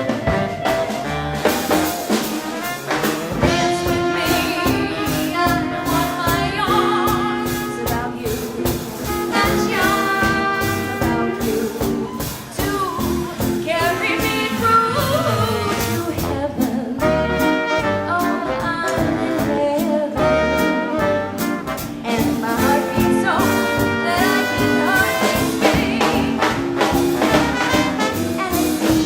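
Live swing band playing a 1940s-style jazz number with horns out front over a steady dance beat.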